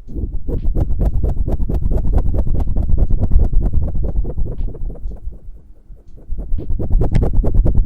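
Close-miked ASMR hand sounds: hands rubbing and brushing rapidly against or near the microphone in a quick, even run of strokes. The strokes ease off for about a second past the middle, then pick up again.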